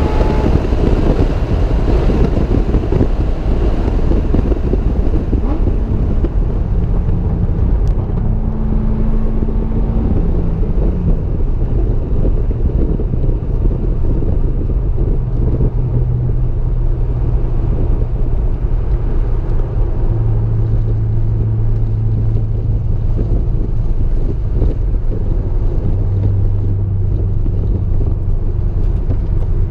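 Car engine running on a track, its note falling in the first second and then holding at low, steady revs under a heavy low rumble of road and wind noise.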